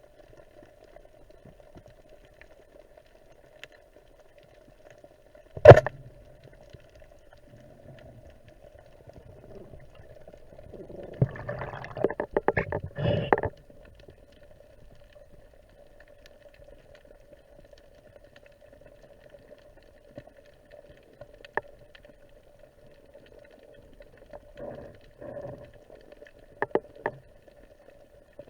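Underwater recording: a steady faint hum, broken by one sharp, loud knock about six seconds in and a quick rattling run of clicks around twelve seconds, with a few softer knocks and thuds near the end.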